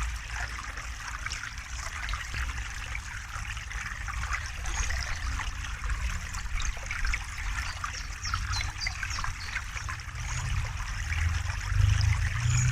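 A river flowing and trickling over rocks, a steady rush full of small splashes. A deeper rumble swells near the end.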